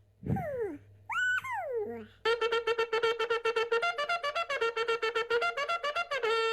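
Buzzy, horn-like wind-instrument tones. Two sliding pitch swoops come first, then a fast stuttering run of notes over a held low note, and near the end it settles into one long steady blare.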